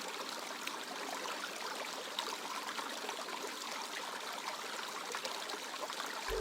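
Water trickling and babbling in a small stream, steady throughout, with many small splashes.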